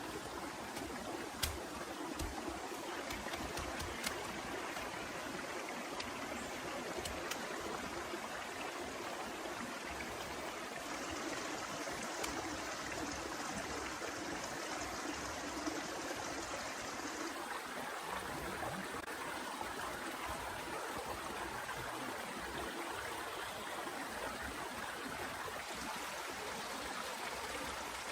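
Steady heavy rain: an even rushing hiss of falling water, with a few sharp drip ticks in the first several seconds.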